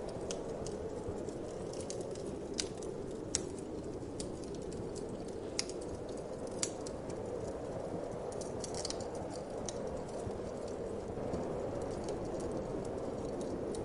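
Wood fire in a fireplace crackling, with irregular sharp pops and ticks, the sharpest about three seconds in and again after six seconds, over a steady whoosh of wind.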